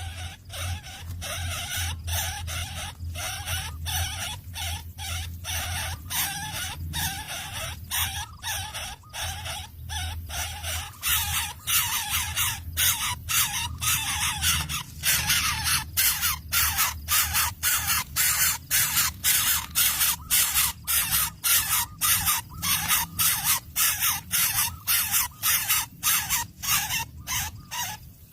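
A rapid series of harsh, hissing rasps, about two a second, louder and more regular from about halfway through.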